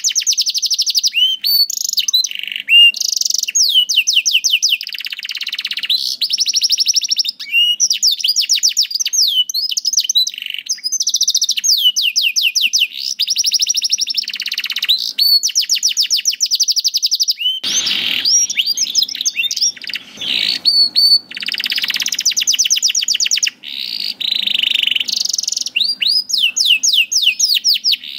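Domestic canary singing a long, continuous song of rapid trills, each phrase a run of the same high note repeated many times a second, with short breaks between phrases.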